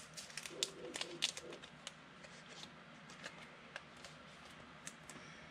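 Trading cards being handled and flipped through: a scatter of light clicks and slaps of card on card, busiest in the first couple of seconds, then sparser.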